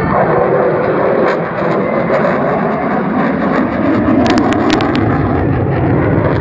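Aircraft engine noise, a loud steady rush, with a few sharp clicks about two-thirds of the way through.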